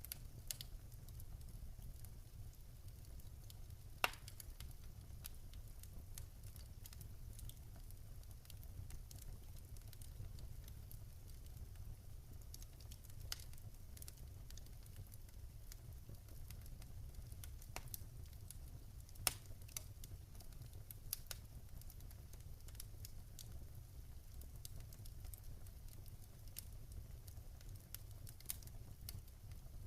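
Wood fire burning in a fireplace: faint, irregular crackling over a low steady rumble, with two sharper pops, one about four seconds in and another about two-thirds of the way through.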